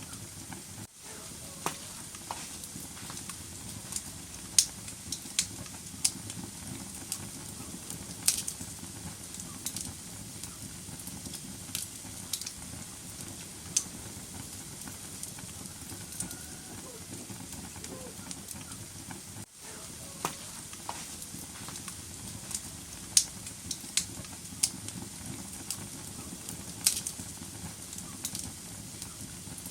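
Wood fire burning in a fireplace: a steady hiss with irregular sharp crackles and pops, a few of them louder. The sound drops out for an instant twice.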